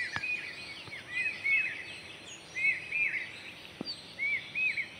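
Birds chirping in a run of short rising-and-falling notes that repeat and overlap, over steady outdoor background noise.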